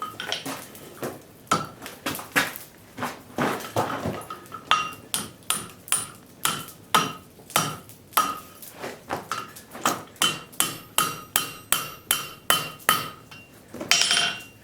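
Blacksmith's hammer striking a railroad spike on the anvil: a steady run of blows about two to three a second, each with a short metallic ring, quickening after about ten seconds and ending with one hard blow.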